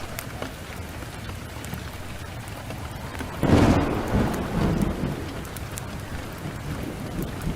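Heavy rain pouring steadily, with occasional sharp crackles. About three and a half seconds in, a loud thunderclap breaks and rolls off in a low rumble that fades over a couple of seconds.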